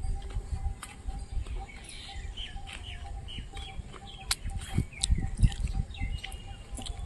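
Birds chirping and calling in short, repeated notes, with a low rumble underneath.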